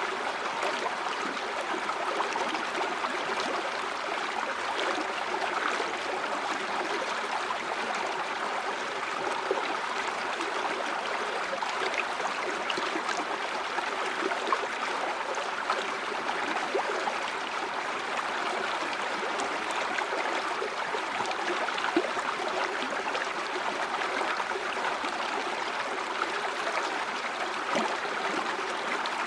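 River water flowing over rocks, a steady rushing babble with small splashes and trickles scattered through it.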